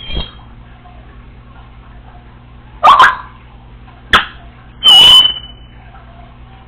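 Congo African grey parrot mimicking a dog's bark: a short squawk at the start, then three loud barks over about two seconds, the last ending in a high steady whistled note.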